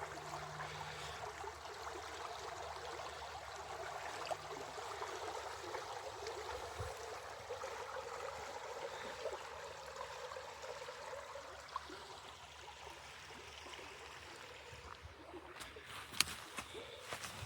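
A small stream flowing and trickling steadily, with a few sharp clicks near the end.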